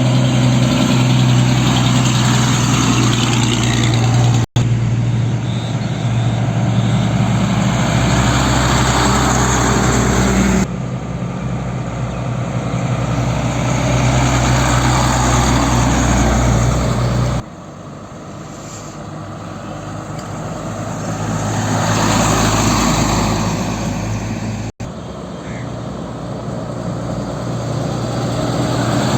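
Heavy diesel truck engines running, in a run of segments that cut abruptly every five to seven seconds. In one segment the sound builds for several seconds, as a truck draws nearer, and then eases off.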